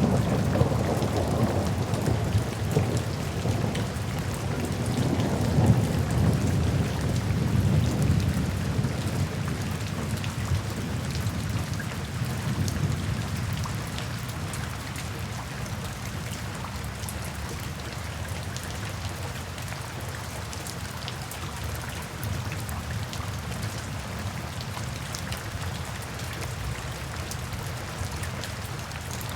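Steady rain falling, with a low rolling rumble of thunder that is loudest in the first half and fades away around the middle.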